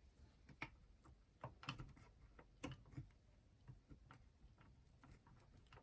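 Faint, irregular small clicks and taps of a screwdriver and hands working on a plastic clock radio case while screws are taken out.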